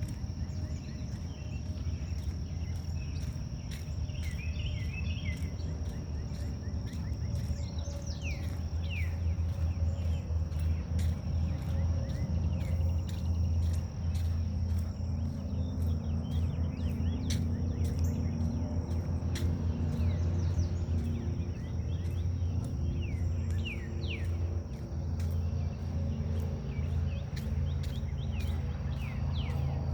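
Forest ambience: birds chirping, with quick falling calls scattered throughout, and a steady high insect drone that fades out about eight seconds in, all over a loud, steady low rumble.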